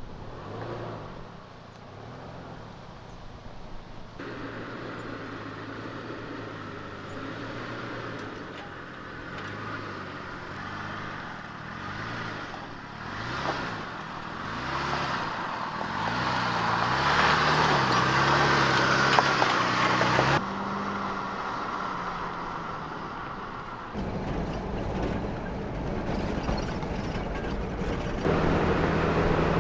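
A vehicle driving: engine hum and road noise, with the engine pitch rising and falling, broken by several abrupt changes where one clip cuts to the next.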